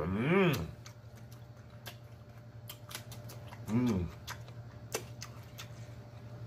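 Close-miked chewing of a bite of bacon-topped stuffed bell pepper with the mouth closed: scattered wet mouth clicks and smacks, with a hummed "mmm" of enjoyment at the start and another about four seconds in.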